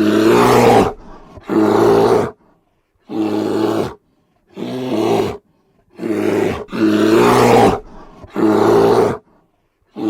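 Big cat roaring: a series of about seven loud, deep calls, each under a second long, with short silent gaps between them.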